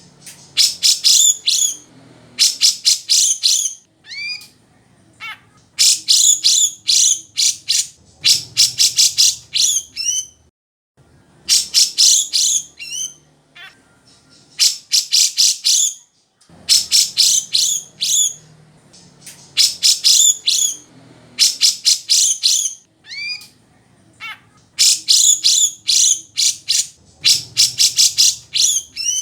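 Grey-cheeked bulbul (cucak jenggot) singing loudly: bursts of rapid, high chattering notes a second or two long, repeated again and again, with short sliding whistles in the pauses between them.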